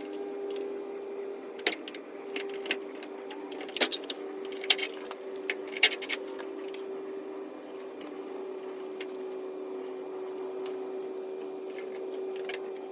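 A scattering of sharp metallic clicks and clinks, most of them in the first half, over a steady hum.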